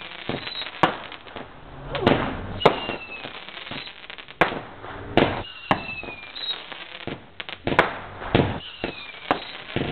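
Fireworks going off: a string of sharp bangs, roughly one a second with some in quick pairs, and several short falling whistles between them.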